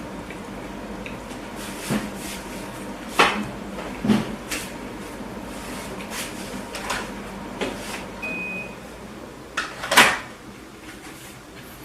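Close-miked eating sounds of a person chewing a burger: irregular short, sharp mouth and food clicks, with a louder one near the end.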